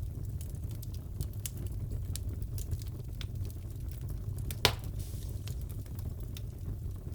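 Wood fire crackling in a fireplace: a steady low rumble with scattered small crackles and one sharp, louder pop a little past halfway.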